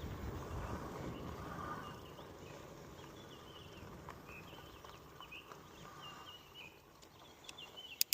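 A bird calling in short repeated chirps, about one phrase a second, over a low rumble that fades over the first couple of seconds.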